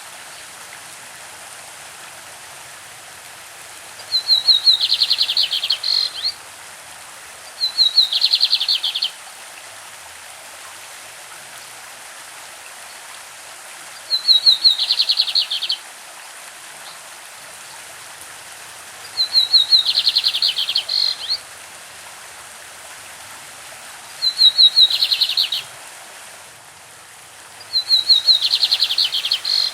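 A lined seedeater (bigodinho) singing: six short phrases a few seconds apart, each a few quick opening notes running into a fast, high trill. A stream rushes steadily underneath.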